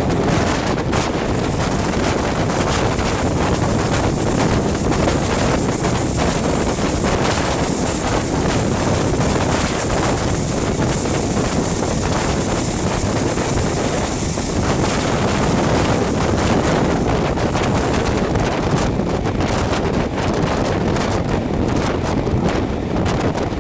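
Loud, steady wind rushing over a microphone held out of the window of a moving train, with the train's running noise underneath.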